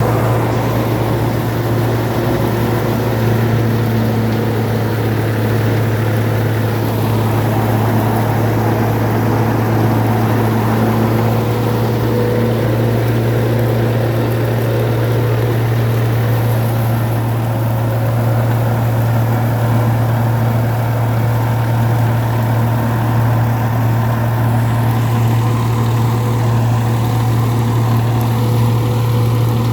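Massey Ferguson 1035 tractor's three-cylinder diesel engine running steadily at a constant speed, driving a straw-making (tudi) machine from its PTO. The engine note holds even with no change in pitch or level.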